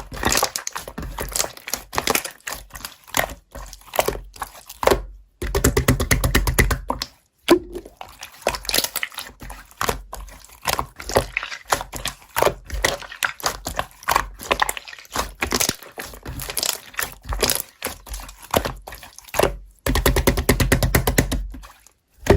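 Slime being squished and pressed by hand, making a rapid, continuous run of clicks and crackles, with denser stretches of popping partway through and near the end.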